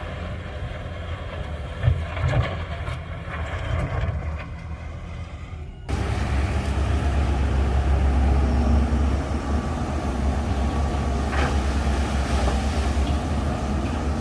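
Heavy diesel engine of earthmoving machinery running, with a few knocks about two seconds in. About six seconds in the sound jumps suddenly louder, to a heavier, steady engine drone.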